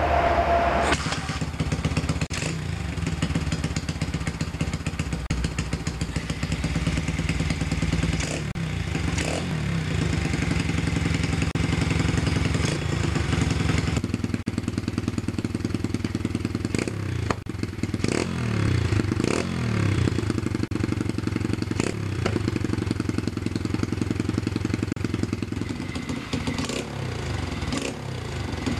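A 125 cc Lifan single-cylinder four-stroke engine in a 1971 Honda CT70 mini bike, running steadily at idle. A few throttle blips raise and drop its pitch about two-thirds of the way through.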